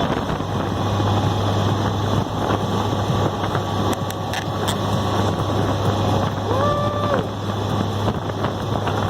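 Polaris Slingshot open three-wheeler under way: a steady engine hum under a constant rush of wind and road noise. A short voice sounds about two-thirds of the way through.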